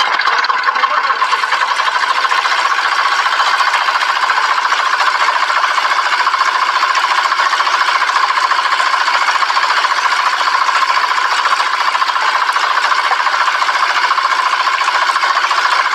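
Small motor of a miniature model engine water pump running steadily, with a fast, even mechanical clatter.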